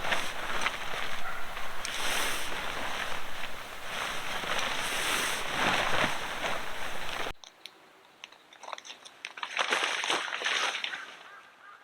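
Loud, continuous crunching noise, then an abrupt cut about seven seconds in to a much quieter stretch of scattered small clicks and crackles.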